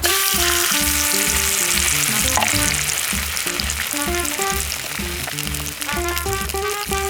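Food frying in a hot pan, a loud sizzle that starts suddenly as the food goes in and then carries on steadily, over background music with a steady beat.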